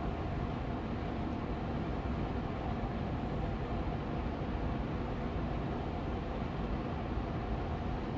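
Austin Air allergy machine air purifier's fan running steadily on medium speed: an even, low rushing hum with no change in level.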